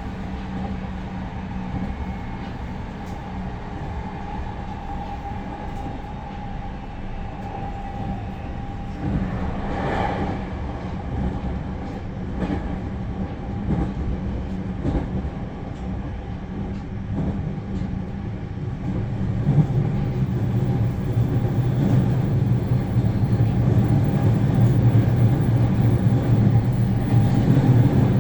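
Interior running noise of a JR Central 315 series electric train: a steady low rumble of wheels on rail with a few light knocks. It grows louder about two-thirds of the way through.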